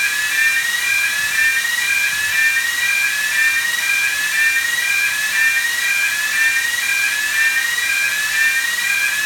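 Electronic alarm sounding continuously in a repeating pattern, a short rising sweep alternating with a steady tone about twice a second, over a steady hiss.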